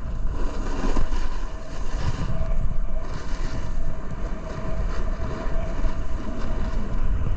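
Snowboard edges and base scraping and chattering over icy, hard-packed snow at speed, with wind rushing over the microphone.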